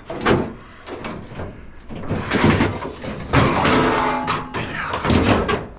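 Heavy pieces of scrap metal banging and clattering as they are handled and loaded, a series of knocks, with a longer clatter and a brief metallic ring about four seconds in.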